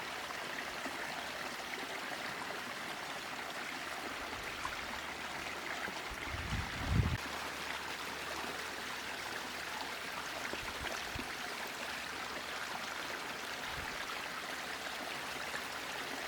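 Small spring-fed stream and waterfall trickling steadily, with a brief low bump about seven seconds in.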